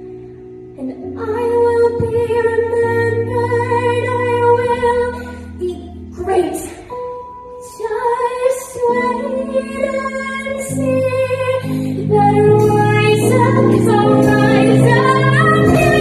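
A female voice singing a musical-theatre song over an instrumental backing track, with long held notes; the accompaniment gets fuller and louder about twelve seconds in.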